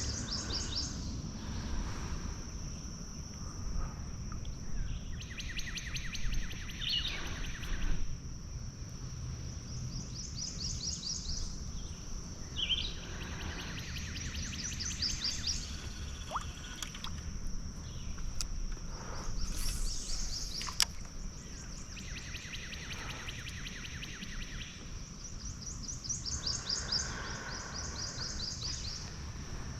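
Outdoor wildlife ambience: a steady high-pitched insect drone runs throughout, while bird trills of rapid pulses, each lasting a second or two, repeat every few seconds.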